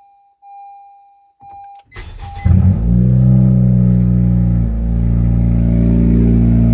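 Two short electronic beeps, then the turbocharged engine of a 10th-generation Honda Civic cranks briefly and catches about two and a half seconds in. It settles into a loud, steady cold-start idle.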